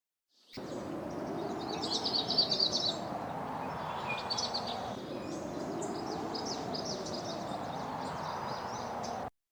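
Small birds chirping in quick, high phrases over a steady outdoor background noise.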